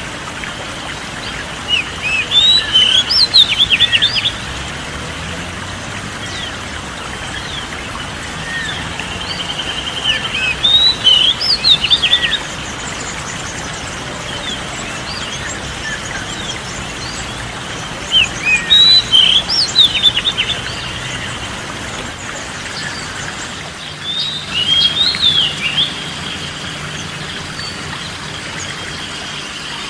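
Songbird twittering in four short bursts of quick chirps, roughly every seven or eight seconds, over a steady background hiss and a faint, steady high tone.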